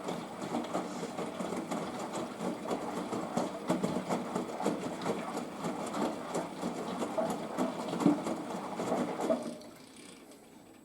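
Washing machine drum tumbling laundry in rinse water, with irregular sloshing and clatter. The tumble stops about nine and a half seconds in, leaving the machine much quieter.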